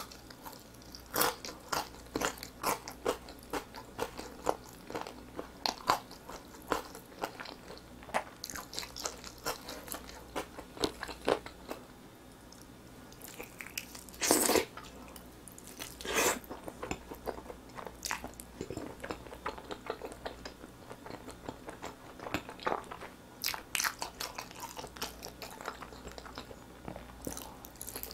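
Close-miked eating of saucy grilled chicken drumsticks: a steady run of short crunchy chews and wet mouth smacks. About halfway through comes a louder bite and tear into a drumstick, followed by another shortly after.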